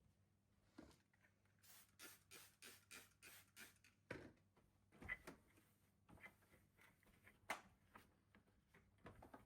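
Faint household handling sounds: a run of short scratchy strokes, about three a second, then a few light knocks and taps.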